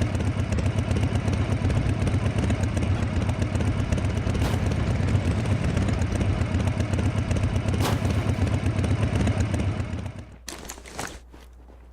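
A motor vehicle running with a steady low rumble, cutting off suddenly near the end, followed by a few short clicks.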